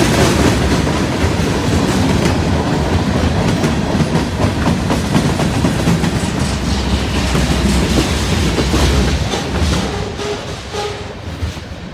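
Freight train cars rolling past, their wheels clacking over rail joints with a steady rumble. The sound fades over the last two seconds as the end of the train goes by.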